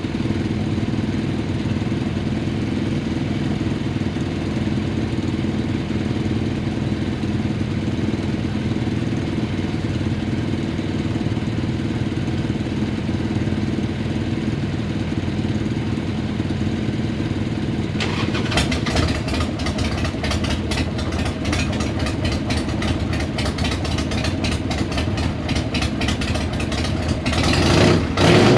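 Several small and mid-size motorcycle engines idling together. About 18 seconds in, a louder Harley-Davidson Sportster V-twin joins with a rapid, uneven pulsing beat, and it is revved near the end.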